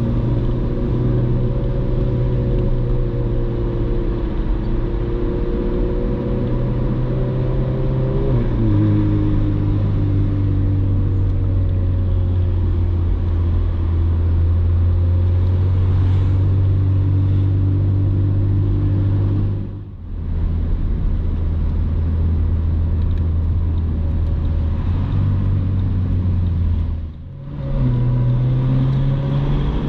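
Ferrari 458 Spider's 4.5-litre V8 running under load at cruising speed with a steady exhaust note. The note drops to a lower pitch about a third of the way in and briefly dips in loudness twice later on, then climbs in pitch near the end as the engine revs up.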